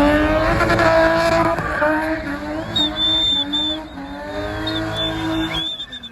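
A car engine revving hard, its pitch climbing and falling repeatedly, with the tyres squealing from about three seconds in as the car spins its wheels.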